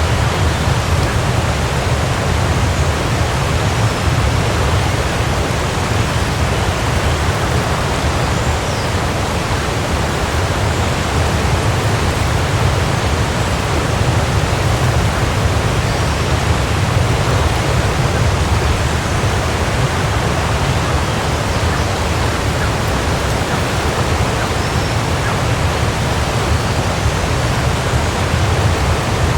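Waterfall: water crashing down in a steady, unbroken rush with a deep low rumble beneath it.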